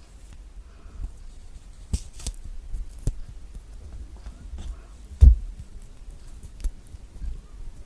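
Close-miked peeling of thick orange peel from pieces of a large orange: irregular small crackles and snaps as the peel is pulled away. There is a single heavier thump about five seconds in.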